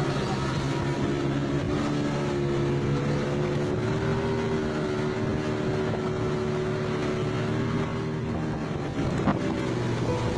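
A boat's engine running steadily at a near-constant speed, with wind on the microphone. There is a single brief knock about nine seconds in.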